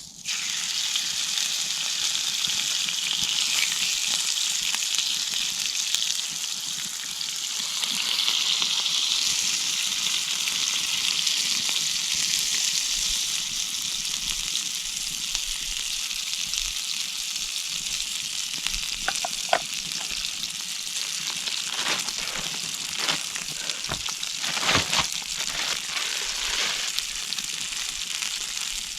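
Meat sizzling over a campfire's hot embers. The sizzle starts suddenly and loudly as the meat goes on, eases a little after the first quarter-minute, and has scattered clicks and knocks in the second half.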